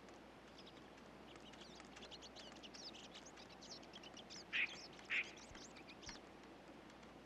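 Tree squirrels calling during a mating chase: a faint run of rapid, high chattering squeaks, with two louder, lower calls about four and a half and five seconds in.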